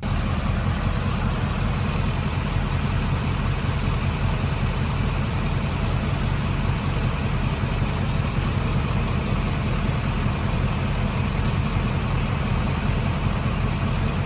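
Diesel truck engine idling steadily with an even low rumble, cutting in suddenly at the start.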